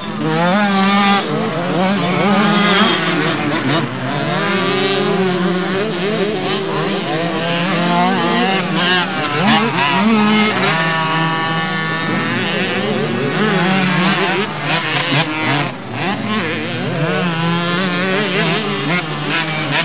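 Several small two-stroke youth motocross bikes (50 cc and 65 cc) racing around a short track, their engines overlapping as each revs up and down through the corners and straights.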